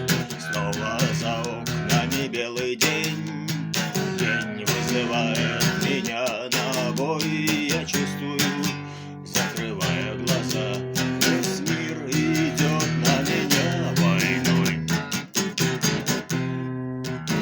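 Acoustic guitar strummed in a steady rhythm, chords ringing on, with no singing.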